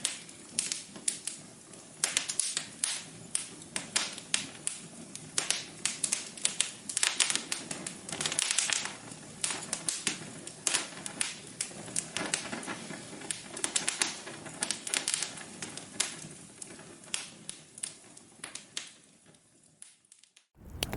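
Wood fire crackling in a fireplace: irregular sharp pops and snaps over a low hiss, fading out just before the end.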